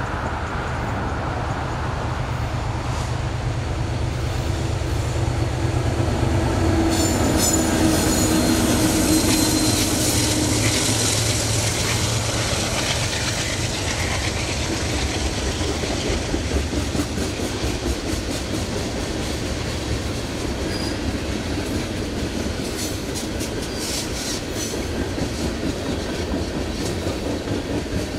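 Diesel-hauled freight train passing: the locomotives' engines rumble loudest about a quarter of the way in, then the cars roll by with wheels clicking over rail joints.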